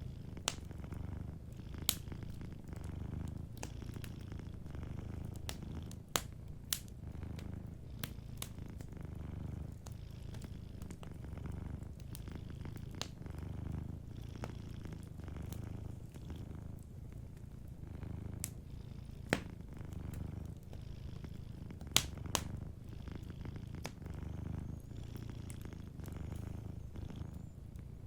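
Domestic cat purring close up, a low rumble that swells and eases with each breath. Sharp pops and crackles from a wood fire come through at irregular intervals.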